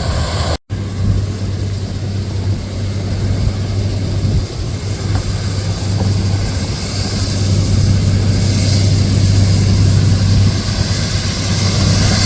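The LORAM SBC-20 shoulder ballast cleaner's diesel engines running steadily with a low hum, joined by a rising hiss of machinery and ballast-cleaning noise. The sound cuts out briefly less than a second in.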